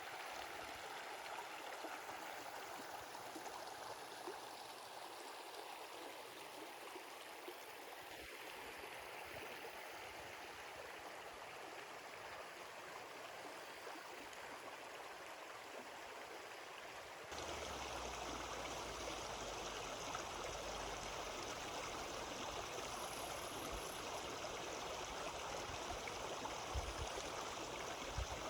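Valley stream flowing over rocks: a steady rushing of water, which steps up suddenly to a louder, fuller rush a little past halfway.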